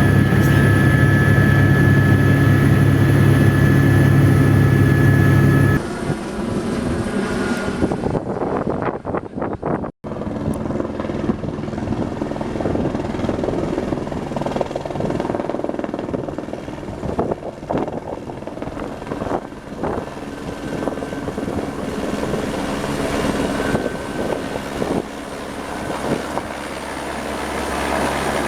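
Helibras Esquilo helicopter's rotor and turbine running, loud and steady with a thin high whine over the low drone. About six seconds in the sound drops abruptly. After a brief gap about ten seconds in, it goes on quieter and more uneven.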